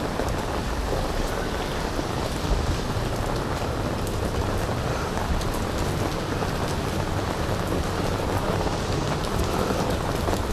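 Steady rain falling, a continuous even hiss with a low rumble underneath and a few faint drop ticks.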